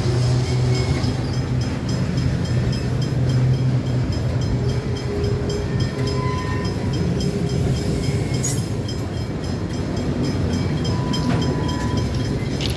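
Freight train of steel-coil wagons rolling past, a steady rumble of wheels on rail with regular clicking. A low hum fades out about five seconds in.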